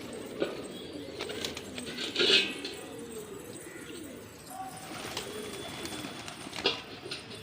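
Domestic pigeons cooing, low wavering calls that carry on throughout. A few sharp knocks or rustles cut in, the loudest a little over two seconds in.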